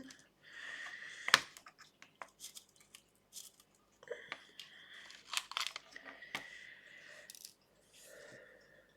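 Diamond painting work at close range: a drill pen and small resin drills making scattered sharp little clicks over stretches of scratchy rustling, the loudest click about a second and a half in.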